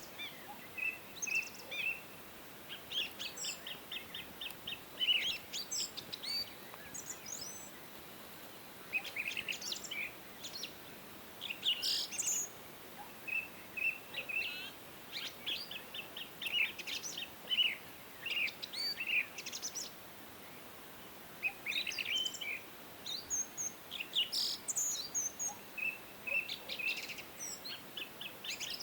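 Several songbirds singing: bursts of quick high chirps and trills come in phrases a few seconds long, with short pauses, over a faint steady hiss.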